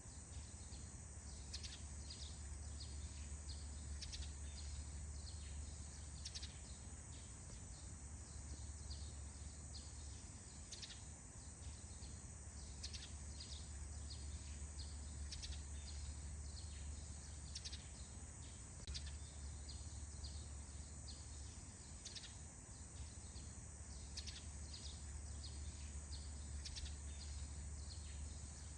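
Faint morning forest ambience: birds give many short, quick chirps throughout, over a steady high-pitched whine and a low, constant rumble.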